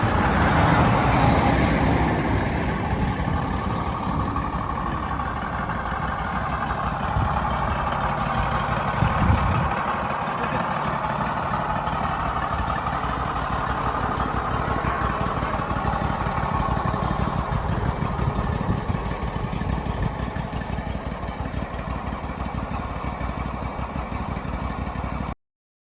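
Wood-Mizer LX450 portable sawmill's engine running steadily while its hydraulics are worked, the pitch of the machine noise shifting a little as it goes.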